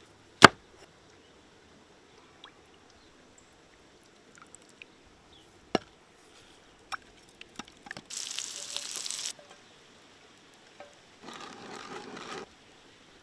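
Food preparation sounds: a sharp knock just after the start and another about six seconds in, scattered light clicks, then two short hissing stretches, one about eight seconds in and one about eleven seconds in.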